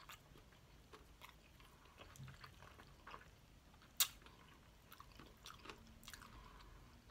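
Quiet, close-miked chewing of fried chicken, with soft mouth clicks and one sharp click about four seconds in.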